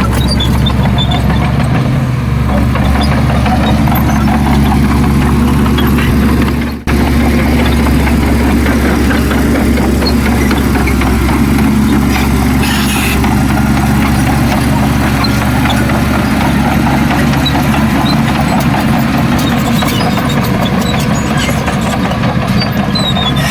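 Heavy diesel engine of earthmoving machinery running steadily, with a brief dropout about seven seconds in.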